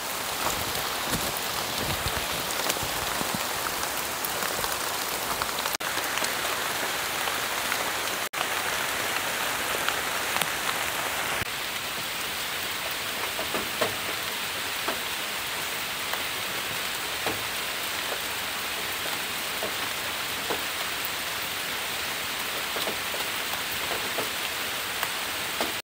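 Heavy rain falling steadily, with many small drop ticks scattered through it.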